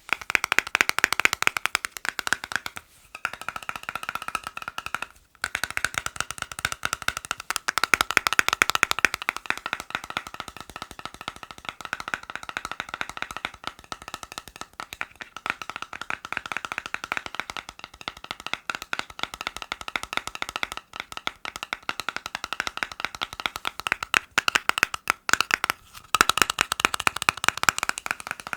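Fast, dense tapping on hard objects, many quick taps a second, with brief pauses about three and five seconds in.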